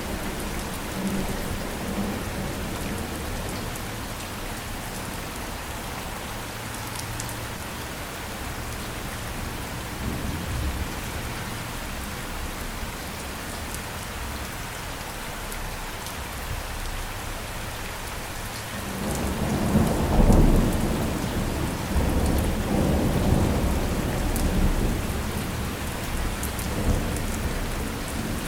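Steady rain falling, with a long roll of thunder that builds about two-thirds of the way through, peaks shortly after and rumbles on in swells almost to the end; fainter distant rumbles come earlier.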